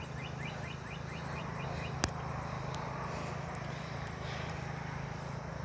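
Outdoor ambience: a bird gives a rapid series of short chirps, about five a second, that stops about a second in, over a steady low hum. A single sharp click comes about two seconds in.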